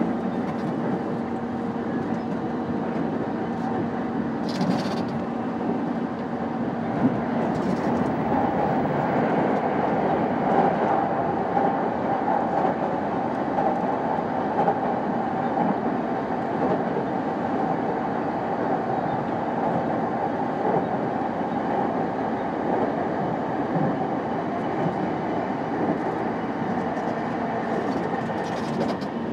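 JR East E233-5000 series electric train running steadily, heard from inside the car: an even rumble of wheels on rail under a steady hum, with a couple of brief knocks about five and seven seconds in.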